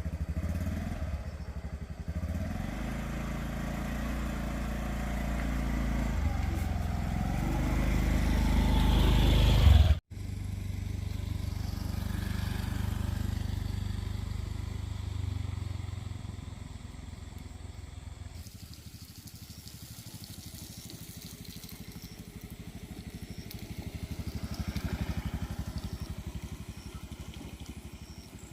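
A small engine running, growing louder over the first ten seconds, then cut off abruptly and picked up again at a lower level, swelling once more near the end.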